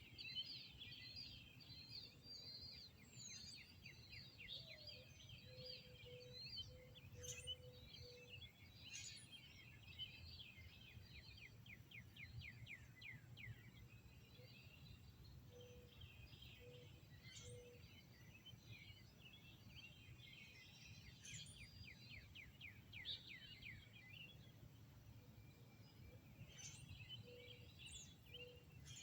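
Mixed birdsong, quiet: several small birds chirping and singing fast trills, with runs of short, low repeated call notes now and then. A faint steady low hum lies underneath.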